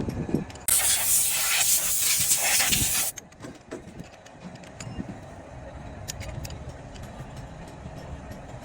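Compressed air hissing in one loud burst of about two and a half seconds that cuts off suddenly, followed by light clicks and clinks of work on the engine.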